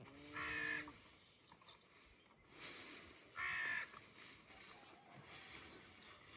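A crow cawing twice, two short harsh calls about three seconds apart.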